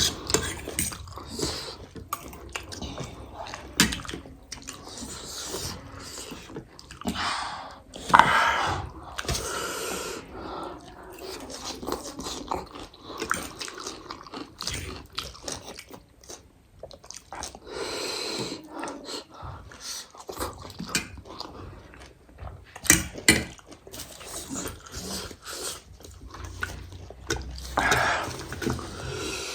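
Close-up eating sounds of spicy noodles and chicken being chewed and bitten, with irregular wet clicks and a few louder noisy swells.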